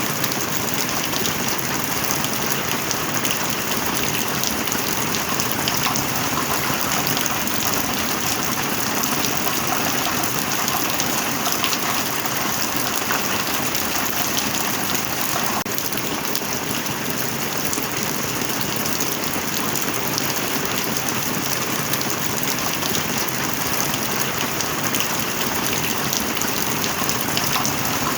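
Heavy rain falling steadily, a dense even hiss of many drops pattering on hard surfaces.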